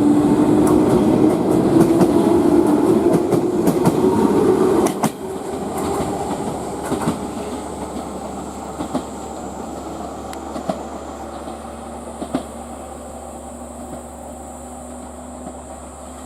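A train going by on the rails, wheels clattering over rail joints, with a steady pitched note under the rumble. It is loud for about five seconds, then drops off sharply and fades away, leaving a few single clicks from the wheels.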